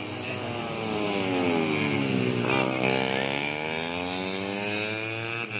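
150cc four-stroke underbone racing motorcycles running hard, engine pitch falling as they slow for about two and a half seconds, then rising again as they accelerate away.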